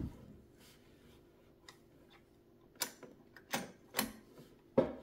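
Small metal clicks and taps as a bobbin is fitted into the rotary hook of a Kenmore sewing machine, a few faint ones at first, then four sharper clicks in the second half.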